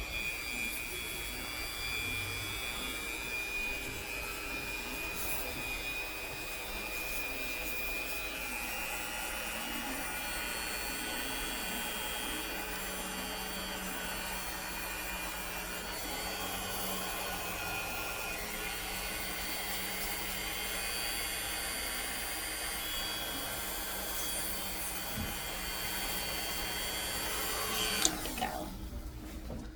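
Small rotary nail grinder running steadily as it files down a Quaker parrot's pointy toenails, its whine dipping a little in pitch now and then, then stopping near the end.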